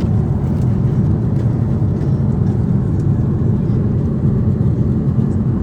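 Steady low rumble inside the cabin of a Boeing 747-8, from its engines and the air rushing past the fuselage.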